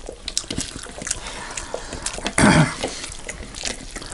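Close-miked chewing and lip-smacking of people eating rice and curry with their hands: many small wet mouth clicks, with one louder mouth noise about two and a half seconds in.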